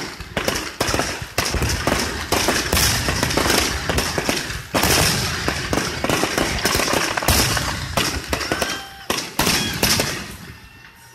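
Fireworks going off in a rapid barrage: many bangs and crackles a second, overlapping, thinning out and dying away near the end.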